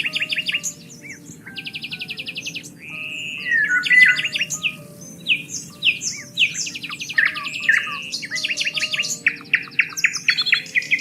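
Several songbirds singing and chirping at once, a dense chorus of overlapping rapid trills, short whistled notes and quick chirps, over faint steady low tones.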